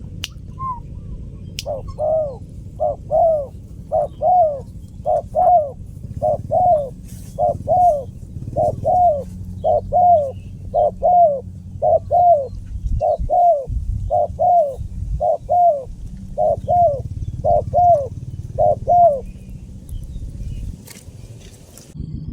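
Spotted dove (tekukur) cooing in a fast, even run of paired coos, each note rising and falling in pitch, a pair about every second. The run stops a few seconds before the end.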